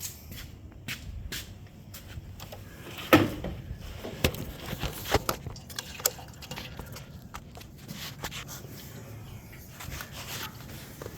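Kawasaki ZXR250 inline-four engine running low and steady just after a cold start, with several sharp knocks or clicks over it, the loudest about three seconds in.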